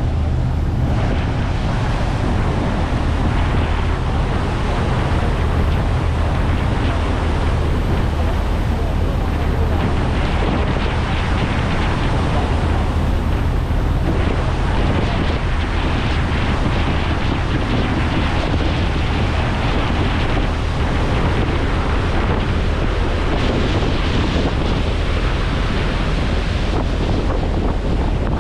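Ferry under way: the ship's engines give a steady low drone beneath wind buffeting the microphone and water rushing past the hull.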